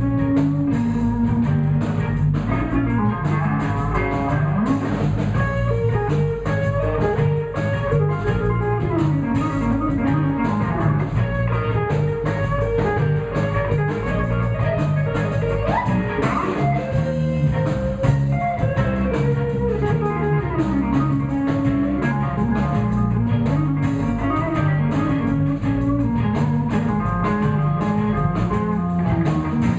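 Live blues band playing an instrumental stretch: electric guitar over bass and a drum kit keeping a steady beat.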